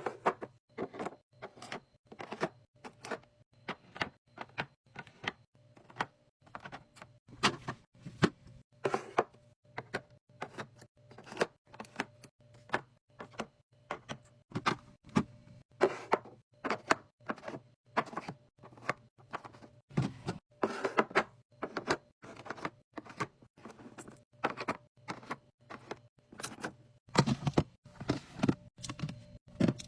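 A rapid run of clacks and knocks, about two to three a second, as items and containers are handled and set in place while restocking a fridge, over a faint steady hum.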